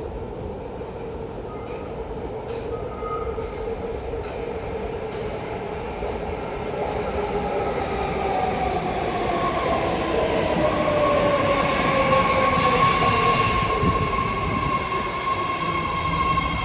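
BART train pulling into the station and slowing, its motor whine gliding down in pitch and growing louder. From about ten seconds in, a steady high tone holds.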